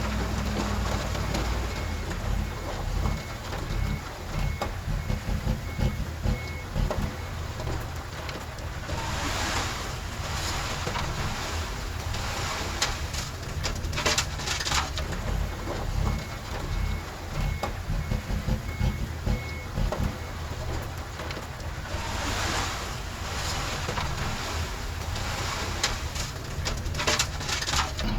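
Bulldozer diesel engine working under changing load, with a few short surges of rushing noise. A back-up alarm beeps in two runs of evenly spaced beeps, about two a second.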